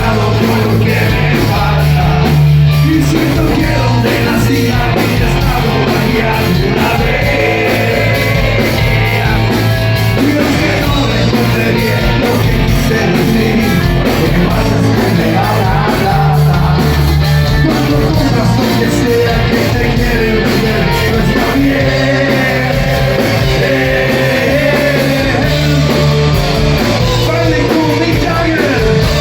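Loud rock music with a singer.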